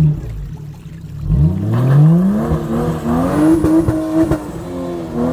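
Four-wheel-drive's engine revving hard: a short blip, then a long climb in revs that holds high, as it drives at a slippery, muddy section of track. A few sharp knocks sound in the middle of the rev.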